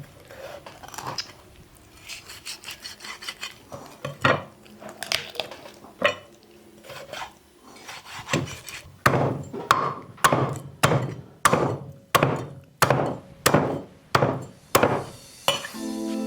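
Repeated chopping strokes on wood. Light scraping and scattered knocks come first, then a steady run of sharp chops at about two a second through the second half.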